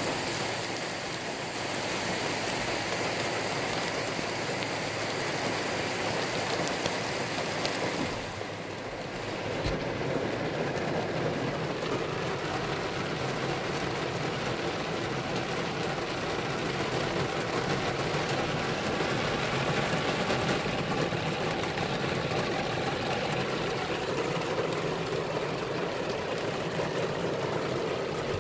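Heavy thunderstorm rain pouring down, a steady hiss. About eight seconds in it dips briefly, then comes back duller and lower.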